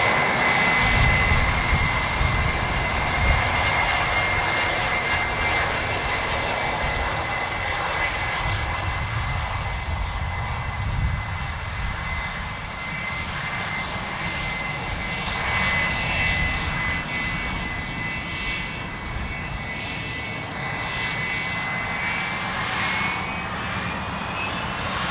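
Fixed-wing aircraft's turbine engines running, a steady high whine over a low rumble, slowly getting quieter; near the end the whine's pitch rises slightly.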